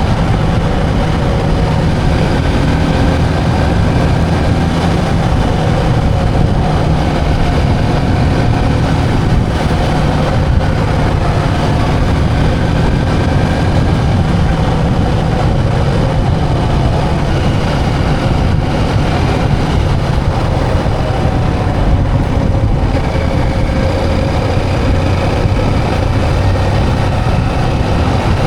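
Motorbike running steadily on the road, its engine mixed with a dense rumble of wind and road noise; the pitch wanders slightly with no sharp changes.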